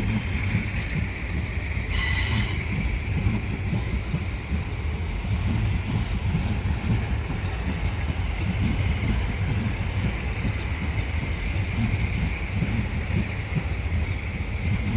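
Class 450 electric multiple unit pulling out of the station: a steady low rumble of wheels on rail with a continuous high wheel squeal, and a brief sharp noise about two seconds in.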